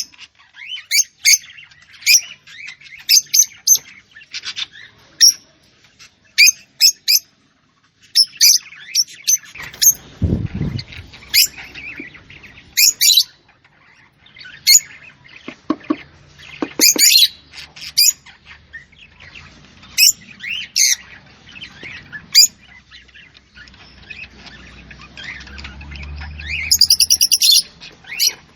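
A small bird chirping and tweeting: many short, sharp high calls in irregular runs, with a longer buzzy trill near the end. A low rumble comes in briefly about a third of the way through and again near the end.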